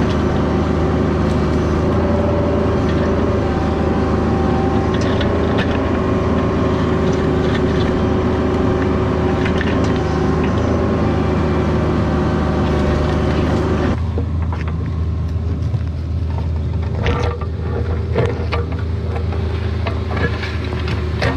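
CAT 304 mini excavator's diesel engine running steadily under work, with hydraulic whine and mechanical creaks and clanks. About 14 seconds in the sound changes abruptly and more scattered knocks and clanks follow.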